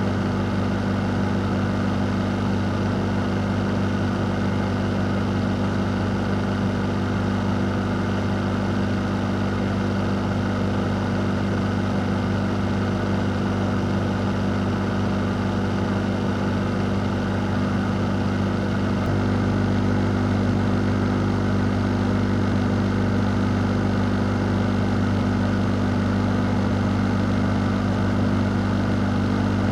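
Cooling fan or air-conditioner unit running steadily: a continuous low motor hum under an even rush of air.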